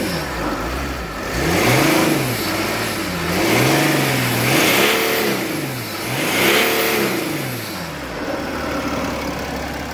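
Mercedes-Benz ML320 engine revved up and down about four times, then settling back to idle, as a test run after a whistling noise was fixed.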